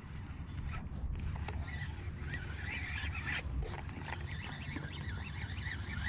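Birds calling over open water: a run of short chirps and calls, against a low steady rumble.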